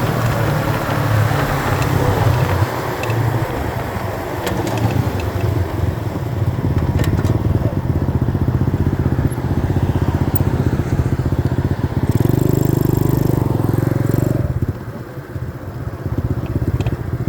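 Small 90cc dirt bike engine running under way, its rapid firing pulses steady for most of the stretch. It pulls louder for a couple of seconds past the middle, then drops back suddenly to a quieter, slower beat near the end as the throttle is closed.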